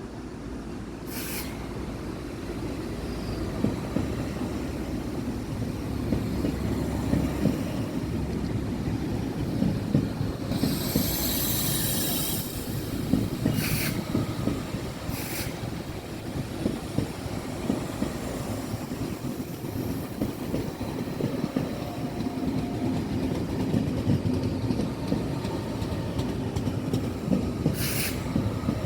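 A train rolling past with a steady rumble and rapid clattering of wheels over the rails. Short high screeches cut through several times, the longest about ten seconds in.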